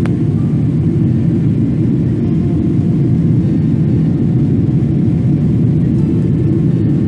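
Airliner cabin noise: a steady, loud rumble of jet engines and airflow heard from inside the cabin, with a single sharp click right at the start.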